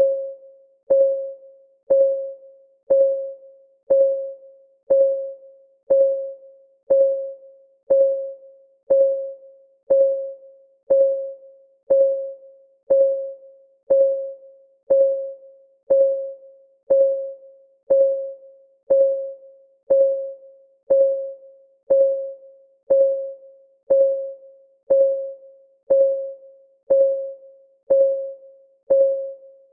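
Clock ticking sound effect from a countdown timer: one even tick a second, each a short click with a brief ringing note.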